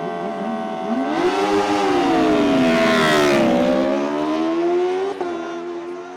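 Superbike engine accelerating hard, its pitch rising and falling as it revs and shifts, with the noise loudest about three seconds in.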